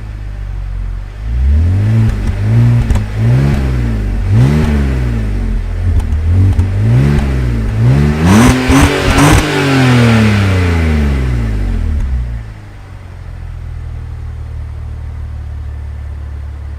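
Stock exhaust of a BMW X3's M54B30 3.0-litre straight-six, its exhaust flap deactivated, as the engine is revved in a series of short blips, then one longer, higher rev. About twelve seconds in it drops back to a steady idle.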